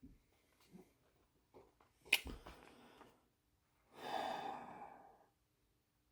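A sharp click about two seconds in, then a person breathing out heavily in a sigh lasting just over a second.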